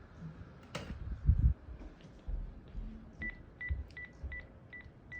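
A sharp crack followed by a loud low thump about a second in, then from about three seconds in a run of short, evenly spaced electronic beeps on one high pitch, about two and a half a second.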